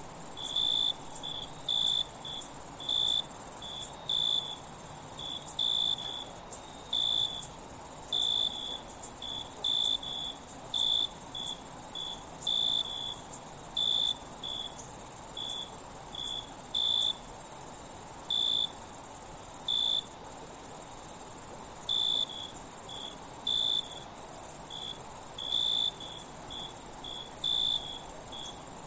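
Night chorus of crickets and other insects: a continuous high-pitched trill with short chirps repeating one or two times a second, and a few very brief drop-outs.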